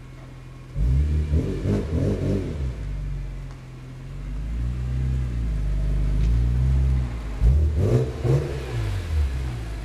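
BMW Z4 M Coupe's S54 straight-six through a Strömung exhaust, idling and then blipped in quick revs about a second in. The revs are then held higher for a few seconds, followed by more quick blips near the end.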